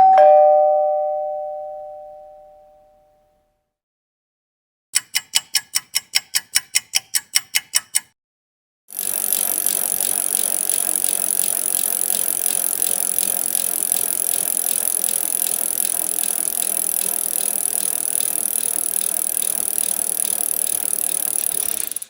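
A run of stock sound effects. First a two-note doorbell chime (ding-dong), the lower note second, fading out over about three seconds. Then, about five seconds in, a bell rung rapidly, about five strikes a second for three seconds, and from about nine seconds a steady noise with a high whine that runs on and stops suddenly.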